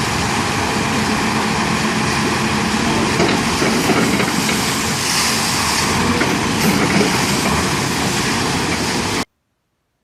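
Construction machine engine running steadily under a loud, even hiss; the sound cuts off abruptly near the end.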